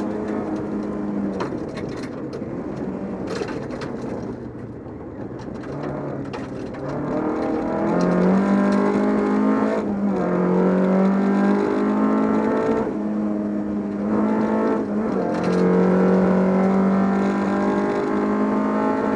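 Volvo 242 rally car's engine running at speed on a gravel stage. It eases off for the first few seconds, then pulls hard with its pitch climbing, and dips briefly about ten and fifteen seconds in at gear changes. Scattered sharp ticks run through it.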